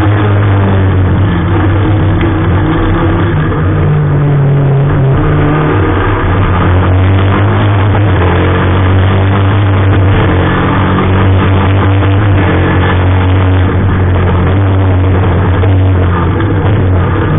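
Lada 21074 rally car's four-cylinder engine running hard under load, heard from inside the cabin, with music playing over it.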